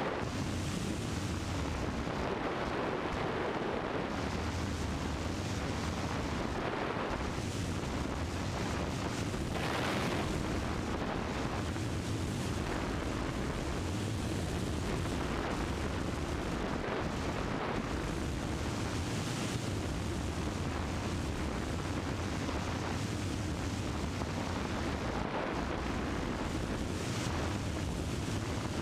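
Cessna 172's piston engine and propeller droning steadily, heard inside the cabin as a constant loud rumble with a low throb.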